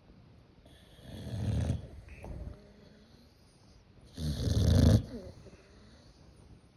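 A boxer dog snoring in its sleep. There are two snores, one about a second in and a louder one about four seconds in.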